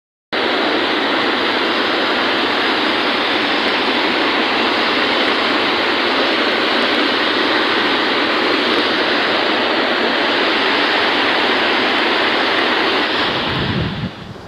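Floodwater rushing in a steady, loud, unbroken wash of noise that starts just after a brief silence and falls away near the end.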